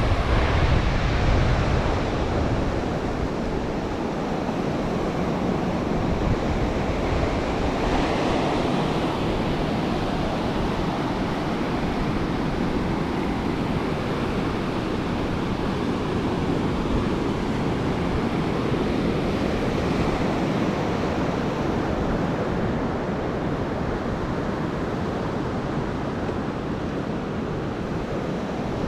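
Ocean surf washing onto a beach in a steady rush, swelling and easing as the waves come in. Wind buffets the GoPro's microphone, with a heavier low rumble in the first couple of seconds.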